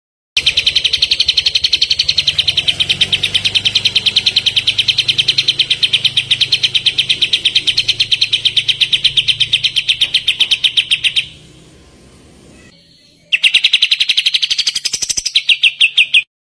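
Kapas tembak bird giving a fast chattering trill of evenly repeated notes. It breaks off about eleven seconds in, resumes about two seconds later, and then cuts off suddenly.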